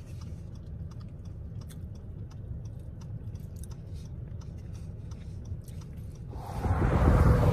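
A person chewing and biting food inside a parked car, faint scattered crunches and clicks over a steady low rumble. About six and a half seconds in, loud wind noise on the microphone takes over.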